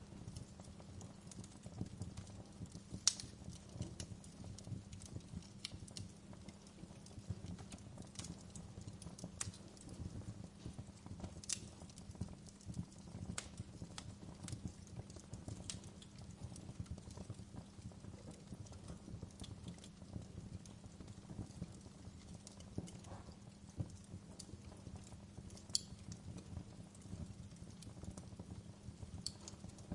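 Wood fire burning, crackling with irregular sharp pops and snaps over a low steady rumble.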